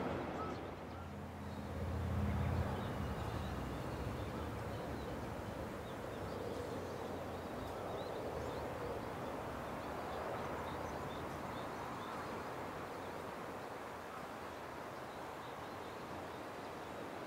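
Faint rural outdoor background with a few light bird chirps. A low rumble swells briefly about two seconds in and then fades.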